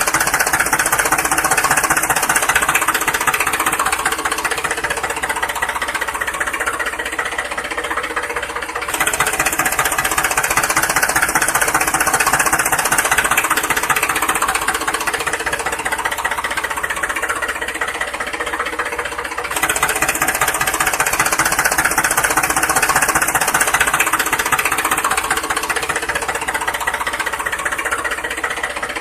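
Steady engine-like mechanical running noise with a fast, even clatter, going in near-identical stretches that restart about every ten seconds.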